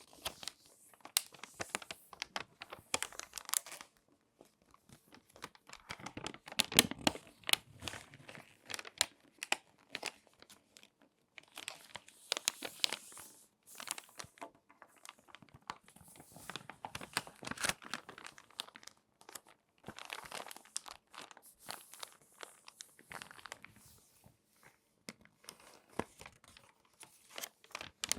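Glossy magazine pages being folded and creased by hand, crinkling and crackling in irregular bursts with short pauses between folds.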